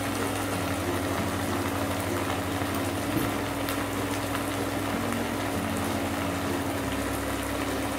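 Sautéed vegetables and freshly added sauces sizzling and bubbling in a nonstick kadai on an induction cooktop: an even, steady hiss with a steady low hum underneath.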